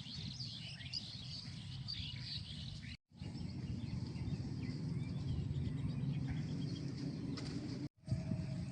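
Small birds chirping, busiest in the first few seconds, over a steady low rumble of outdoor background noise. The sound cuts out completely for a moment twice, about three seconds in and near the end.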